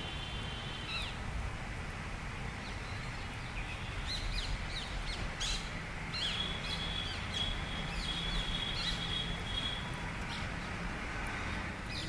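Birds calling: short high chirps and quick pitch sweeps, and a long steady high note from about six to ten seconds in, over a low steady rumble.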